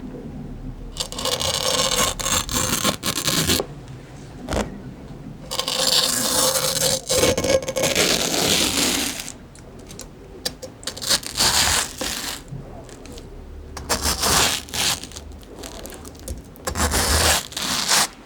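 Crunchy fresh fruit being bitten and chewed, in several dense bouts of crunching separated by short pauses.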